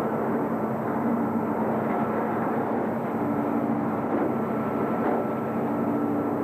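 Steady mechanical running noise with a low hum.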